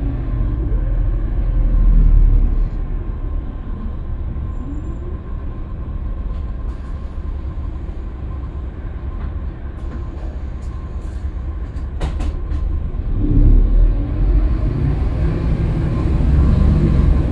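Scania K320UB city bus running on the road: a steady low engine and road rumble that swells briefly near the start, with a couple of sharp clicks about twelve seconds in and the engine growing louder again from about thirteen seconds on.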